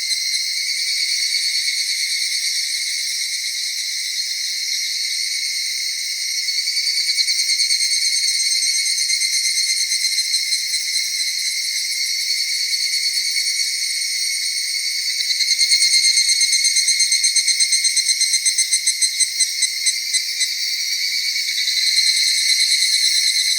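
A chorus of crickets and other singing insects: several steady high trills layered together. About two-thirds of the way through, a louder, rapidly pulsing song joins in and thins out before it stops.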